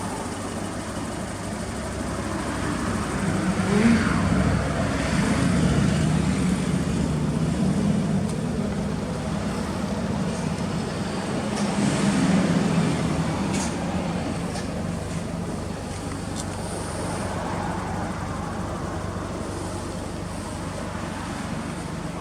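Toyota Celica ST202's four-cylinder engine running through an aftermarket exhaust, the revs swelling up and easing back twice, about four seconds in and again around twelve seconds.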